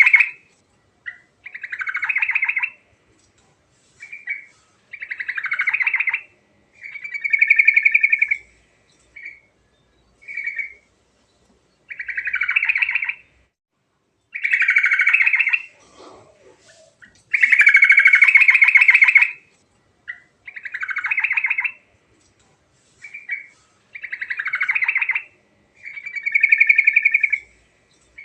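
Yellow-vented bulbul (trucuk) singing loudly: a string of fast, trilled phrases about one to two seconds each, with short pauses and a few brief single notes in between.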